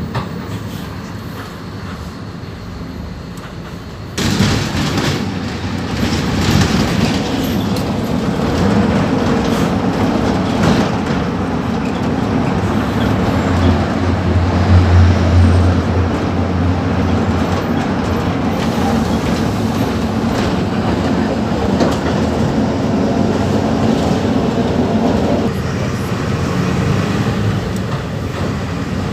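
Mercedes-Benz OF-1721 BlueTec 5 bus diesel engine running with the bus under way, with rattling and road noise. It is quieter at first, gets suddenly louder about four seconds in as the engine is put under load, holds a deep drone for a few seconds midway, and eases off a few seconds before the end.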